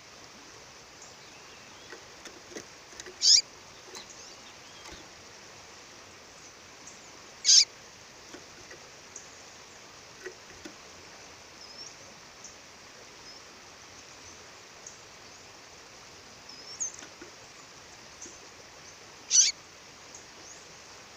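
Female songbird calling: three short, sharp, high calls spaced several seconds apart, with fainter chirps between them, over the steady rush of a waterfall.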